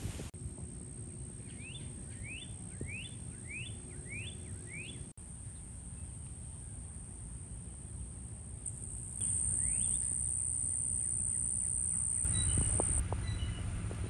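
A small bird sings a short rising whistled note six times in a row, a little over half a second apart, then once more later, over a steady high-pitched hiss.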